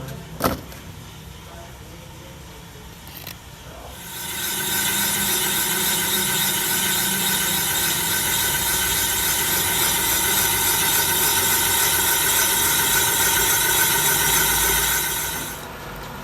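A sharp click, then a loud, steady machine hiss with a whine starts about four seconds in and runs for about eleven seconds before stopping.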